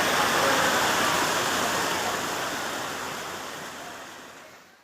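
Steady rush of water, fading out over the last few seconds.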